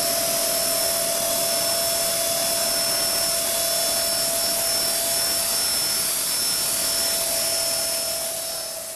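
E-Sky King electric RC helicopter running with a steady high whine from its motor and rotors, holding one pitch, then falling away near the end.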